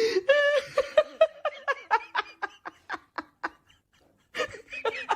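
A person laughing in a run of short, rhythmic bursts that break off briefly about four seconds in and then start again.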